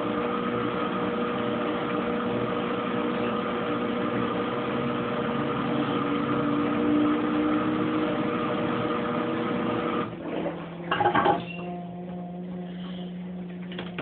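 Kenmore Oasis top-load washing machine running through its cycle, pumping water out and starting to spin: a steady mechanical hum with a whine. About ten seconds in the sound changes abruptly, with two short louder clunks, then settles into a quieter, lower steady hum.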